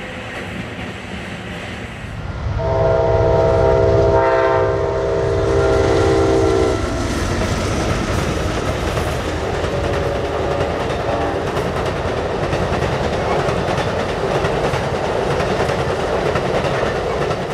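Amtrak Auto Train passing: the locomotive's air horn sounds one loud, several-note chord for about four seconds starting a couple of seconds in, and briefly again, fainter, about ten seconds in. The bi-level passenger cars roll by with a steady rumble and the clickety-clack of wheels over rail joints.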